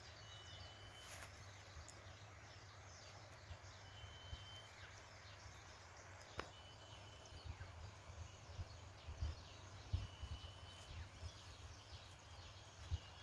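Faint open-air ambience: a bird repeats one short, flat whistled note four times, about three seconds apart, over a light hiss with a few soft low knocks.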